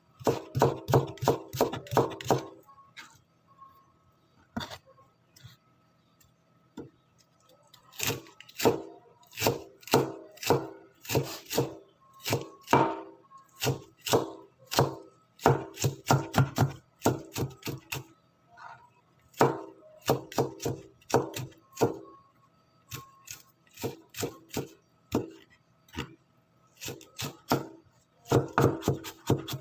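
Knife chopping ginger on a cutting board: quick runs of sharp knocks, several a second, broken by short pauses.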